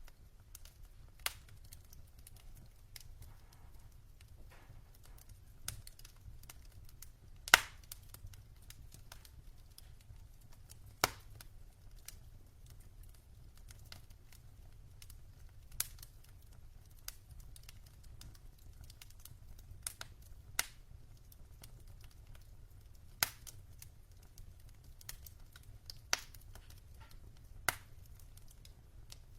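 Wood logs burning in a fireplace, crackling with irregular sharp pops, the loudest about seven and a half seconds in, over a faint steady low rumble.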